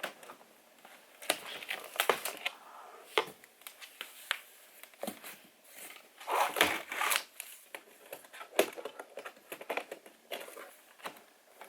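Rustling, crinkling and clattering of things being handled in a small room, with scattered sharp clicks and knocks and a louder stretch of crinkling about six to seven seconds in.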